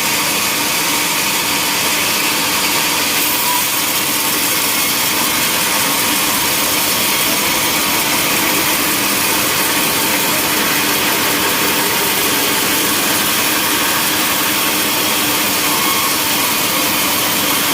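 Sawmill saw cutting through a log with its motor running, a loud continuous even noise that holds steady without a break.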